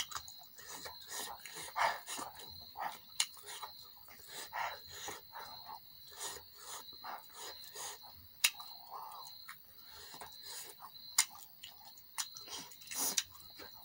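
Close-up mouth sounds of eating chicken with the hands: wet chewing and lip-smacking in quick irregular clicks, with a couple of sharper smacks. A steady high whine runs underneath.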